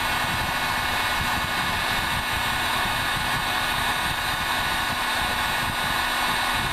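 Cheap electric heat gun blowing steadily on its high setting, a constant rush of air with a faint whine in it, while it melts solder paste under a surface-mount chip.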